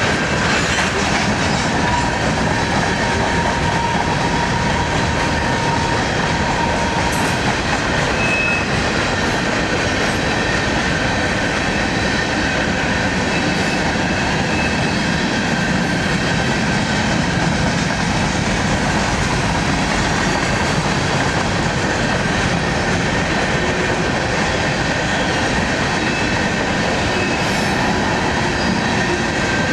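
Freight train of covered hopper cars rolling steadily past at close range: continuous noise of steel wheels on the rails, with a thin wheel squeal from about a second in that lasts several seconds.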